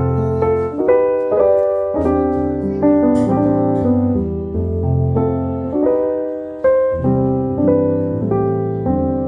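Background music: a piano playing a slow, gentle tune in chords that change about once a second.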